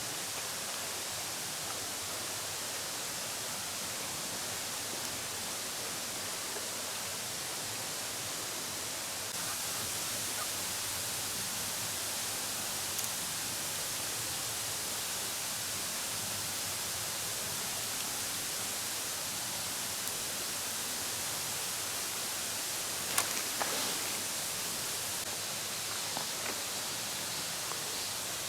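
Steady, even outdoor hiss of background noise, with a few faint clicks a little over two-thirds of the way through.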